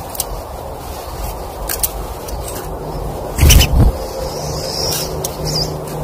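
A few faint high bird chirps, including a short rising call near the end, over a steady low rushing background. A loud low thump comes a little past halfway through.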